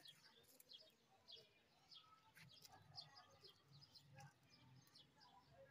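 Near silence, with faint, scattered high chirps of small birds.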